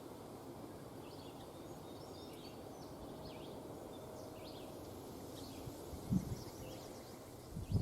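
Faint songbird chirps over a steady low background hiss, with two brief low thumps near the end.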